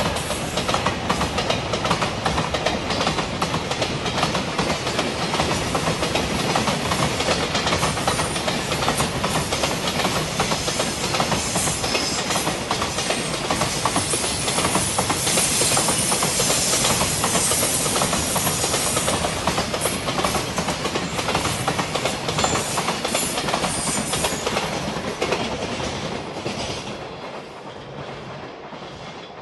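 Container freight train wagons rolling past close by: a steady, rapid clickety-clack of wheels over the rail joints, with high-pitched wheel screeching in the middle. It fades away near the end as the last wagon passes.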